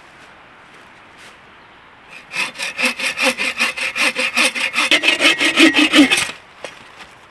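Hand saw cutting through a log in quick back-and-forth strokes, several a second. It starts about two seconds in, grows louder, and stops about six seconds in.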